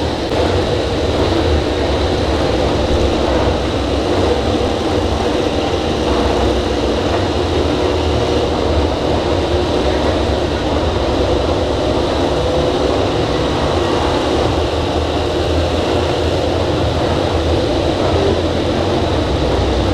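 A steady, continuous drone of racing motorcycle engines on track, with no single bike passing close by.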